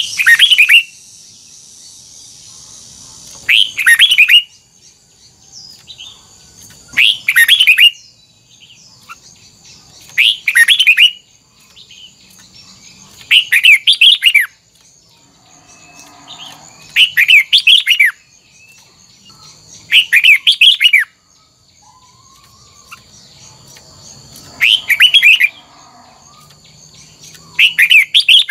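Red-whiskered bulbul singing, repeating the same short loud phrase of quick warbling notes about every three seconds.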